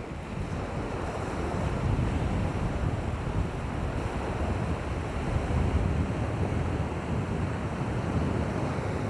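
Wind rumbling on the microphone at the seashore, with the wash of waves beneath it. The rumble is steady, swelling and easing a little.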